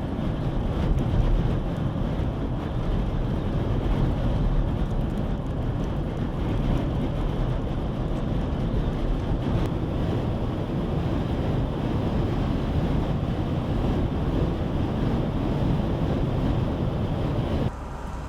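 Strong dust-storm wind together with the road noise of a moving vehicle: a steady, loud low rumble and rush. It drops off abruptly near the end.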